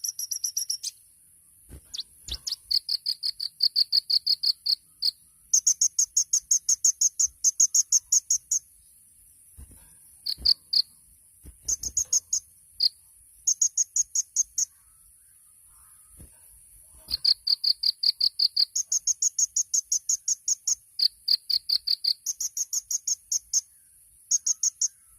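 Kolibri ninja (purple-throated sunbird) singing fast rattling trills of short, evenly repeated high notes, about eight a second, in phrases of one to three seconds that switch between a lower and a higher pitch, with short pauses between them. A steady faint high hiss runs behind the song.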